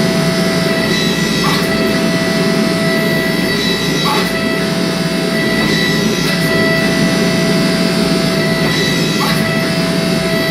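Steady, loud workshop machine noise with a constant whine-like tone that drops out and returns, and a faint tick about every two and a half seconds.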